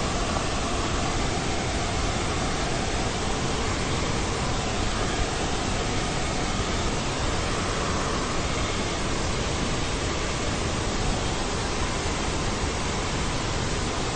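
Steady, even hiss of noise with no breaks, clicks or changes in level.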